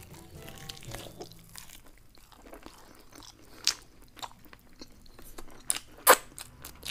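Close-miked eating of garlic fried chicken: biting and chewing the fried chicken, with crunches and wet mouth clicks. Two sharper clicks stand out, the louder one near the end.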